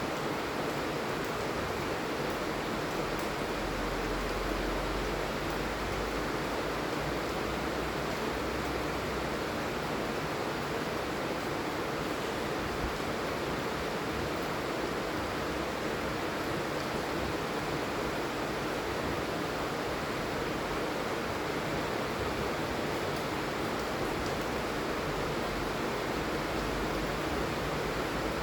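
Steady heavy rain falling, a dense even hiss, with a low rumble swelling briefly from about four to ten seconds in.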